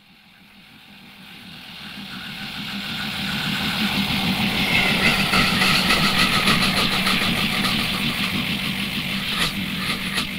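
A train approaching and passing: a steady engine hum that swells from nothing over the first few seconds, is loudest in the middle, then slowly fades, with a few sharp clicks near the end.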